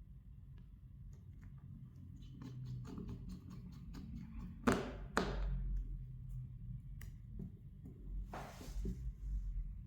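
Light clicking and tapping of small tools and phone parts being handled on a workbench, with two sharp knocks a moment apart about halfway through and a short rustle near the end, over a low hum.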